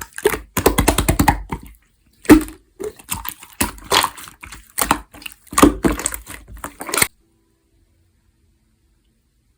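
Jelly-textured clear slime being squished and poked by hand, giving quick runs of sticky clicks and pops. It stops abruptly about seven seconds in, leaving silence.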